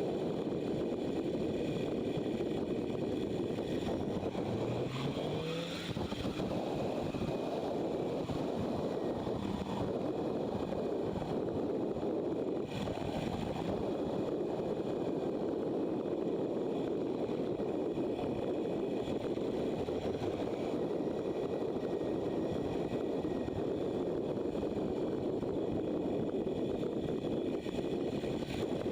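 Motorcycle running at road speed with steady wind rush over the microphone; the engine pitch rises briefly about five seconds in as the rider opens the throttle.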